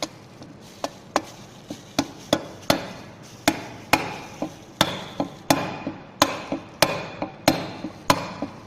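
A hammer striking metal about twenty times, each blow ringing briefly. The blows quicken to roughly three a second.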